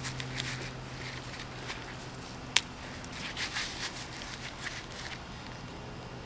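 Irregular rustling and crunching of soil being dug through to unearth sweet potatoes, with one sharp click about two and a half seconds in.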